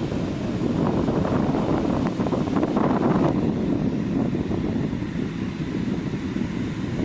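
Ocean surf on a sandy beach: a steady rush of waves breaking and washing up, swelling briefly about a second and three seconds in, with wind buffeting the microphone.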